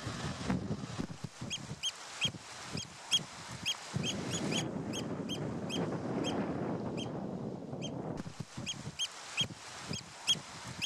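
A bird calling in flight overhead: a long run of short, sharp, high calls, about three a second, over a steady background rush.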